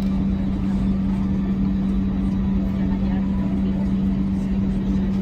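Steady drone inside an Airbus A321 cabin during start-up: one constant low hum over a low rumble, with no rise or change.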